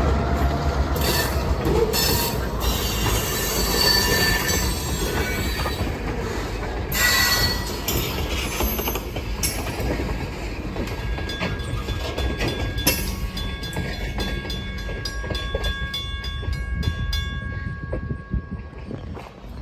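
Freight train rolling past: a heavy low rumble at first, then rail cars with steady squealing wheel tones and an even run of clicks as the wheels cross rail joints in the second half, fading near the end.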